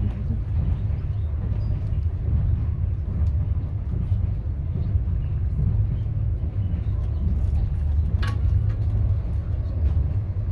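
Steady low rumble of a moving passenger train heard from inside the carriage, with one brief sharp clink about eight seconds in.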